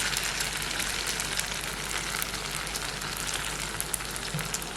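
Batter sizzling as it fries in a little hot oil in a pan: a steady crackling hiss that slowly gets quieter.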